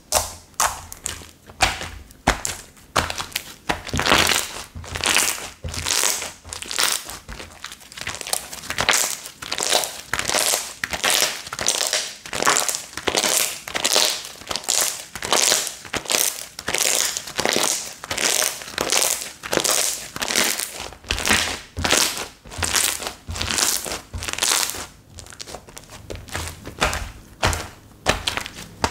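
Slime being squeezed and pressed by hand, making a steady run of crackling, popping squishes, about two or three a second.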